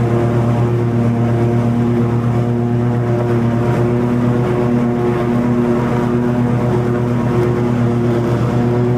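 Toro TimeCutter 50-inch zero-turn mower running steadily while mowing long grass: a constant engine drone with the cutting deck engaged, holding an even pitch and level.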